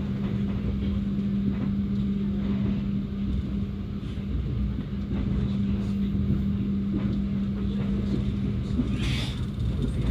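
Passenger train running along the track, heard from inside the coach: a steady low rumble of the wheels with a constant hum. A brief hiss about nine seconds in.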